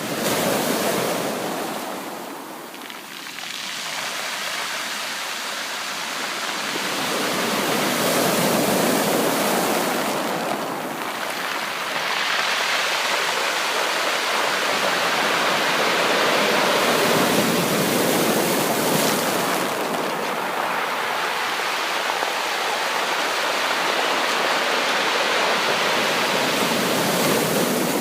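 Ocean waves breaking and washing on the shore, the surf swelling and easing in slow surges several seconds apart.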